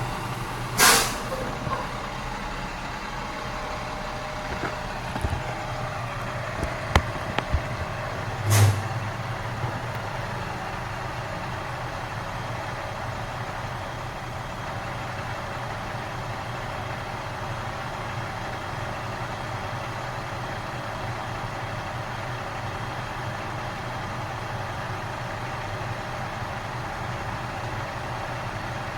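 Garbage truck engine idling with a steady low hum, with two short loud bursts of air hiss, one about a second in and one about eight seconds in, and a few sharp knocks in between.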